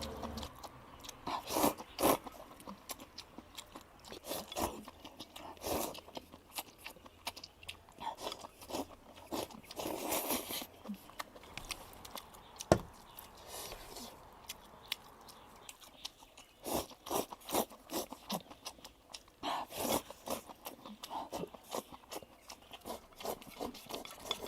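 A person eating crunchy food close to the microphone: repeated crisp bites and chewing in irregular clusters, with the loudest crunches early on, around the middle and in a run in the last third.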